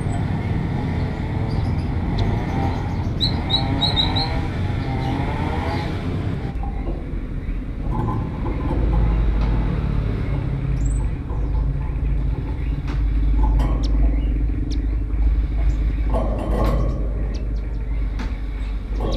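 Small songbirds chirping over a steady low rumble, with a quick run of four high chirps a few seconds in and scattered short calls after.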